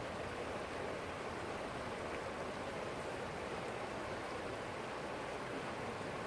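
Stream water flowing steadily over rocks, an even rushing wash with no breaks.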